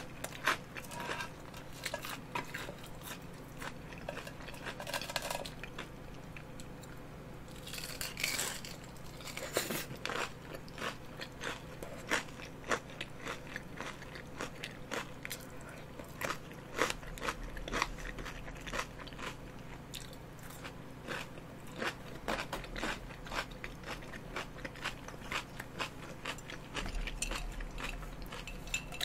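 A person chewing crunchy fried food close to a microphone: many quick, irregular crunches and bites throughout.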